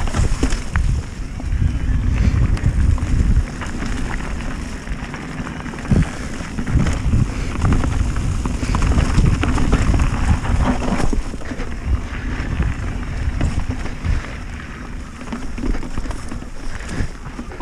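Wind buffeting the microphone over a steady low rumble and scattered sharp knocks from a mountain bike descending a rough dirt trail.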